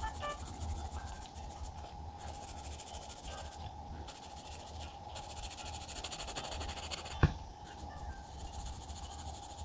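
Pen writing by hand on paper: scratchy strokes in stretches with short pauses between them, and one sharp tap about seven seconds in.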